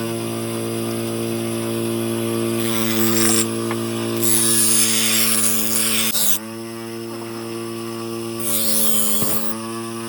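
Electric grinder motor running with a steady hum, cutting into metal three times in long hissing passes while shaping a knife blade.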